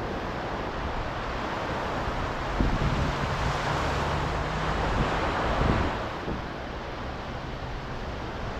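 Ocean waves breaking and washing in, swelling to a louder rush about two and a half seconds in and easing off after about six seconds, with wind buffeting the microphone.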